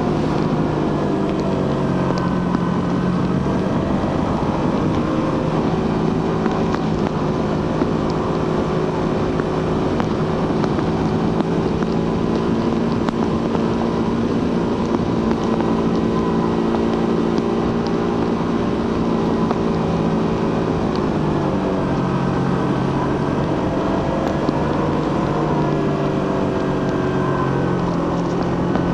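Suzuki GSX-R150's single-cylinder 150 cc engine and stock exhaust running under way, its pitch steady for long stretches. The pitch drops about two-thirds of the way through and then climbs again as the throttle changes.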